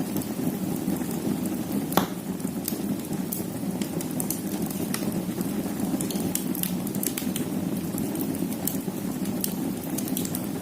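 Wood fire burning in a fireplace: a steady low rush with frequent sharp crackles of the burning logs, and one loud pop about two seconds in.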